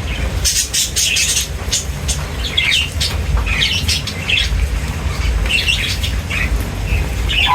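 Several small birds chirping and squawking in short, overlapping calls, with quick fluttering wing beats and sharp clicks, over a steady low rumble.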